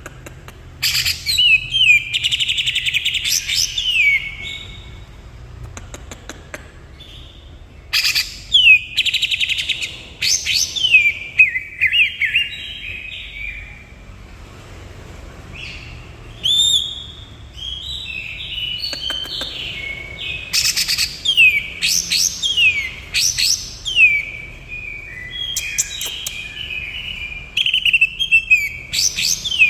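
Green leafbird (cucak ijo) singing loud bouts of rapid, sharply falling whistles and chattering notes, with short pauses between bouts.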